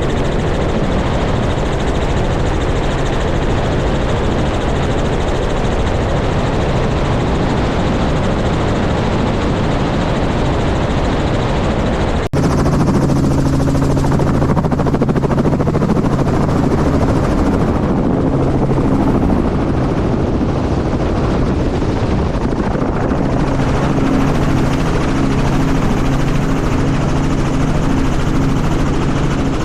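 Helicopter running loudly and steadily. An abrupt cut about twelve seconds in switches to a recording with a stronger, steady low hum from the rotor and engine.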